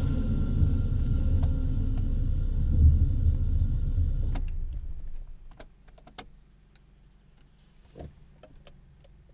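Škoda 136's rear-mounted four-cylinder engine running at idle with a low rumble, then switched off about four and a half seconds in. A few light clicks follow.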